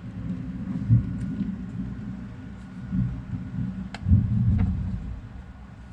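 Storm wind gusting against the house, a low rumble that swells several times.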